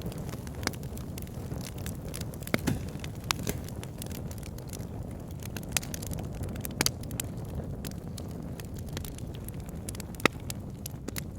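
Wood logs burning in a log burner: a steady low rush of flame with scattered crackles and sharp pops, the loudest pop near the end.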